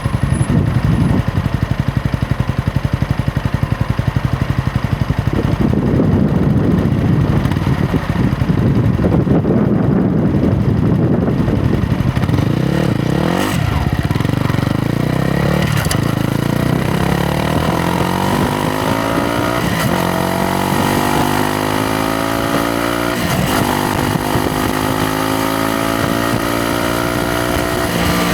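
Yamaha MT-125's 125 cc single-cylinder four-stroke engine and exhaust under way, running at steady low revs at first and then accelerating, its note rising and dropping back at each of several upshifts in the second half.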